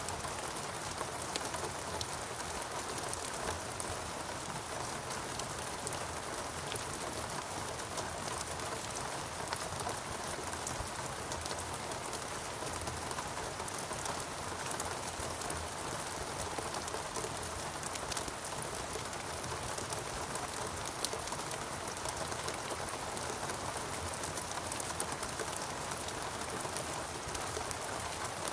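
Steady rain falling in a rainforest, an even hiss with many distinct drops pattering and ticking on leaves and surfaces.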